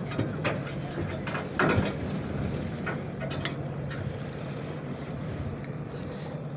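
Steady low drone of a fishing boat's engine, with a few short knocks about a second and a half in.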